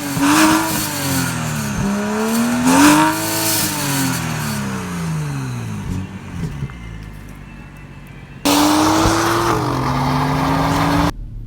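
Turbocharged straight-six of a modified BMW 435i with catless downpipes, revving up and down under acceleration, its pitch rising and falling twice before settling lower. After a sudden cut, a louder, steadier engine note runs for a few seconds and stops abruptly near the end.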